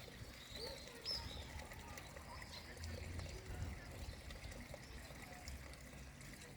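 Faint, scattered bird chirps over a low, steady outdoor rumble.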